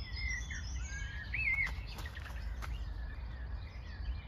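Songbirds singing, with clear whistled phrases sliding up and down in pitch, loudest about a second and a half in, over a steady low rumble. A few faint clicks come near the middle.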